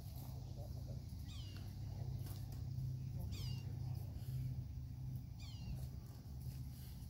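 A bird repeating a short call that falls in pitch, about once every two seconds, over a steady low hum.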